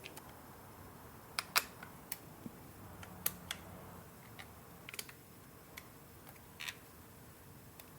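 Small grey plastic retaining tabs being pried up one by one with a pick tool: about a dozen sharp, irregular clicks and snaps.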